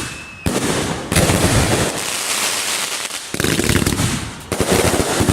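Fireworks display: a rapid barrage of shell bursts and crackling, with fresh waves of bangs starting about half a second, one second, three and a half and four and a half seconds in.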